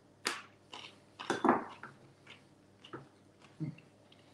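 A person biting into and chewing a crunchy raw carrot dipped in edamame dip: a few irregular crunches, the loudest about a second and a half in.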